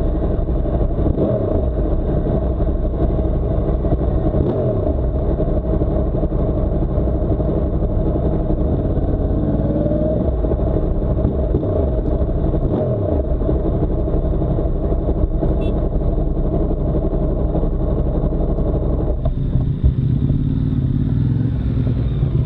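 Yamaha R1M's inline-four engine heard from on board, its pitch rising and falling again and again as it is revved and shifted. About nineteen seconds in it settles to a lower, steadier note.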